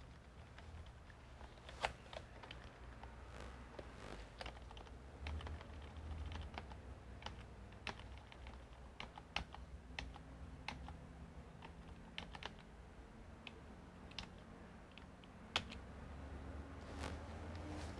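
Irregular keystrokes and clicks on a computer keyboard, a few sharper presses standing out, over a faint steady low hum.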